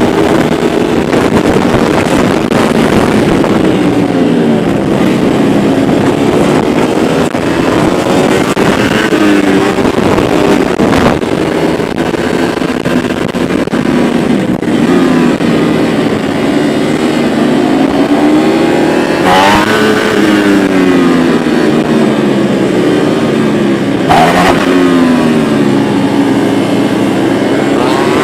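Several Ducati motorcycles riding together on a race track, their engine notes overlapping and repeatedly rising and falling in pitch as they accelerate and ease off.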